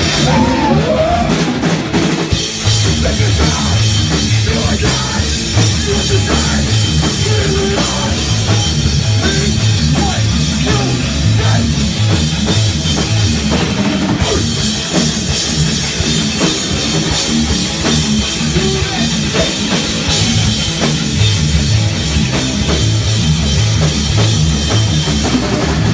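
Rock band playing live and loud: a pounding drum kit with steady cymbal wash, over bass and guitar.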